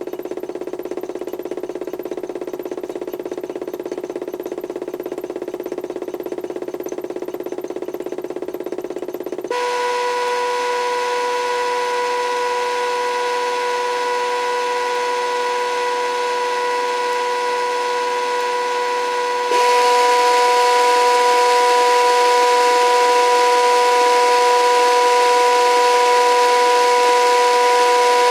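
Toy washing machine's drum driven by a HUSTOO 775 DC motor through a pulley, running steadily under PWM speed control. Its whine steps up abruptly twice, about ten seconds apart, each time louder and higher: the programme is switching the motor to faster speeds in stages.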